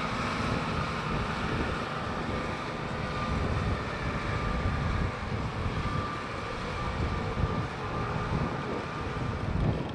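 Engine of a 1987 Kalmar DC12-1200 heavy forklift truck running steadily, with a faint steady whine.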